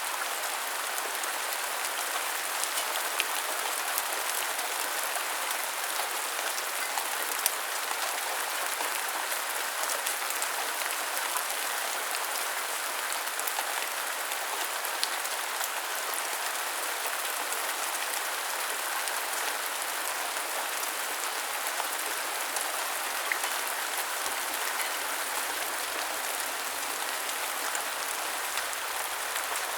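Steady rain falling, an even hiss with now and then a sharp tap of a single drop.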